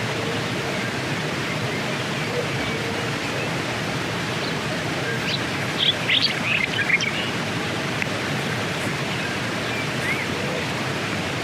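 Steady outdoor rushing noise, with a short cluster of high chirps about six seconds in.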